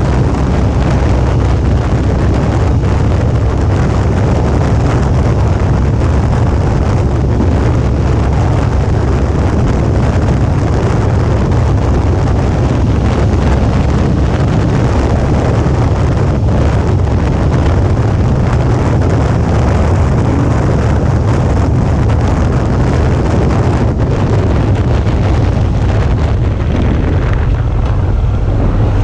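Wind buffeting an action camera's microphone during a motorcycle ride, over the steady running of a Suzuki V-Strom 650's 645 cc V-twin engine.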